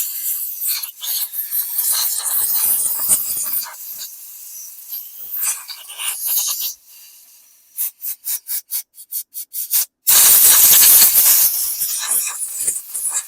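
Scrubbing and rubbing on small carburetor parts during a carburetor cleaning. About eight seconds in comes a quick string of short hisses, then a loud continuous spray hiss for about a second and a half.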